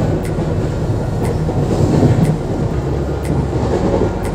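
Navjeevan Express passenger train running at speed, heard from on board: a steady rumble of wheels on the rails, a little louder about two seconds in, with a faint high click about once a second.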